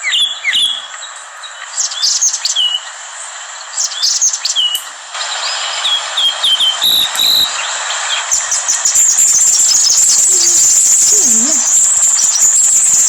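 Small birds chirping again and again over a steady hiss, with short high chirps and squeaks that come thicker in the second half.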